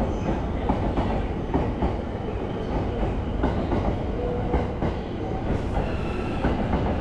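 Azusa limited express train running through the station, a steady low rumble with wheels clicking irregularly over rail joints and points.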